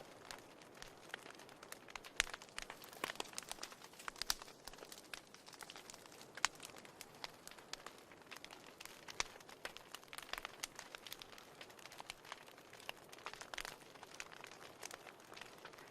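Wood fire crackling in a fireplace: irregular sharp snaps and pops, bunched in clusters, over a soft hiss of burning.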